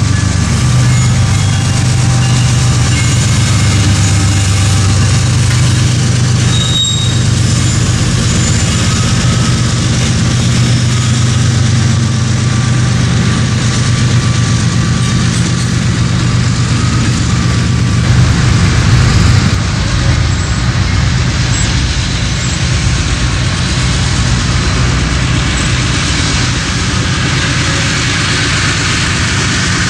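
Train running close by: a diesel locomotive's engine hums steadily under the rumble and rattle of wheels on the rail, with a brief louder swell about two-thirds through.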